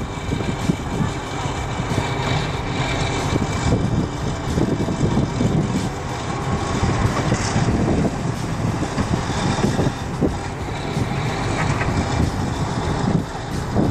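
Continuous rough rumble of heavy vehicle engine and road noise, with some wind.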